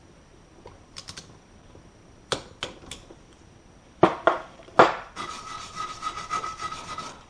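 A few sharp clacks of metal parts being handled. Then, from about five seconds in, a steady rasping, scrubbing sound with a thin steady tone in it, as suspension parts are cleaned.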